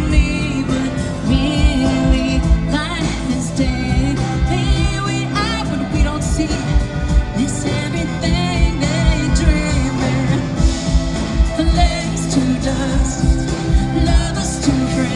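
Live pop music: a woman sings lead over a full band, with steady bass notes and a regular kick drum.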